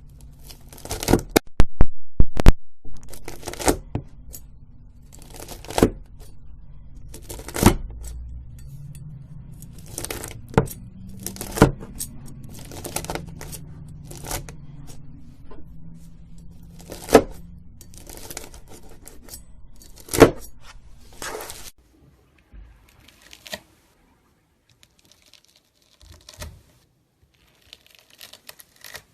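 Crunchy slime packed with foam beads crackling and popping as a knife cuts into it. A dense run of loud crackles comes a second or so in, then single crunches every second or two, thinning to a few faint ones near the end.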